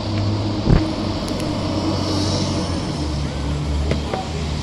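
Fire apparatus's diesel engine running steadily, its low note dropping to a lower pitch about three seconds in. A single sharp knock just under a second in.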